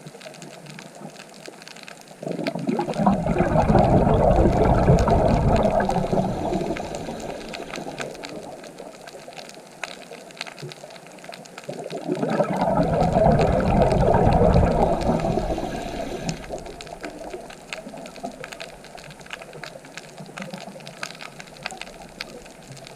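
Sea waves breaking, two big surges about ten seconds apart. Each rises quickly and then fades away slowly over a steady wash of surf.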